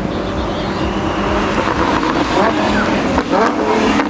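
Lamborghini Super Trofeo race car's V10 engine running at speed, its pitch sliding up and down about halfway through.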